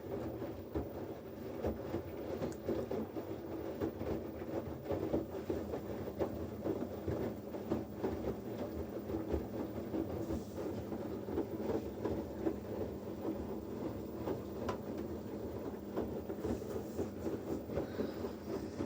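Washing machine running through a wash, a steady rumbling churn with many small knocks and clicks throughout; it starts and cuts off suddenly.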